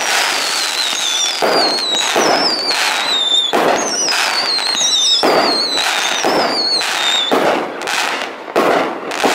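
Fireworks display: shells bursting in quick succession with bangs and crackling, over a string of high whistles that each fall in pitch, one after another, until about three-quarters of the way through.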